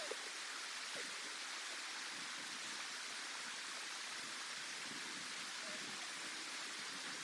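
A steady, even hiss with no distinct sounds standing out, as of wind or falling precipitation.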